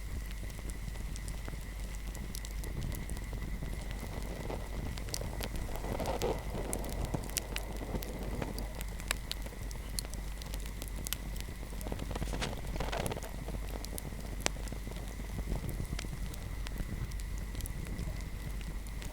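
Fireplace fire crackling, with scattered sharp pops over a low steady rumble and a soft rush of flame swelling up twice, about six and thirteen seconds in. A faint steady high tone sits underneath.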